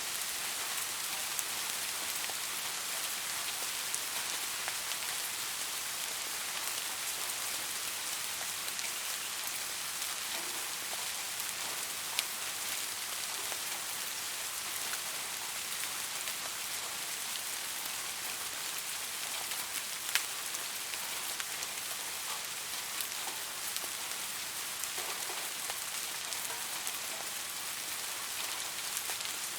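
Steady rain falling and pattering on a surface, an even hiss with many small drop ticks and a few sharper drop hits.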